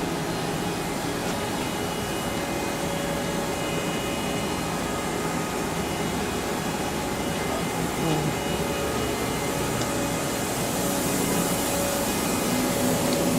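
Haas VF-3SS vertical machining center running, a steady mechanical whir with several steady tones. A hiss grows louder in the last few seconds.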